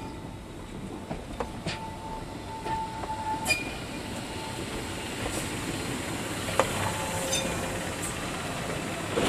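Electric rack-railway train of the Tramway du Mont-Blanc rolling slowly past, its wheels clicking and clanking over the rails. A thin wheel squeal sounds briefly in the first few seconds, and there are sharp clanks scattered through.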